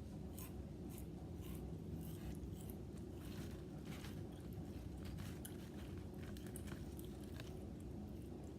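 Potato chips being chewed close to the microphone: irregular crisp crunches, several a second, over a steady low background hum.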